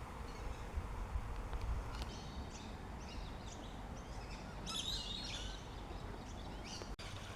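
Small birds chirping and calling in short scattered bursts, busiest about five seconds in, over a steady low background rumble.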